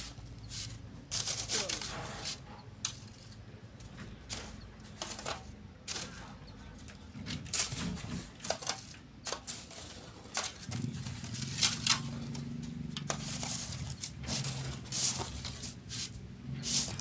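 Shovels scraping and sand being thrown onto a sifting screen, heard as a string of irregular sharp scrapes and rattles. A low steady hum joins about eleven seconds in.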